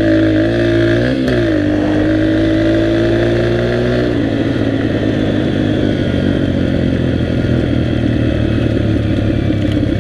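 Dirt bike engine running under way: its note dips briefly about a second in, then climbs steadily, and about four seconds in drops to a lower, rougher, choppier sound.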